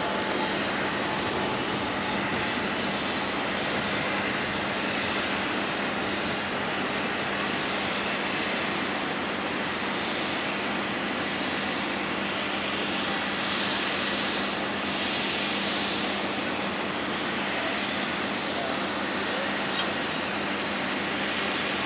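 Jet engines of a Boeing 747-400 freighter on its landing, a steady rushing noise with a brighter hiss swelling a little past the middle.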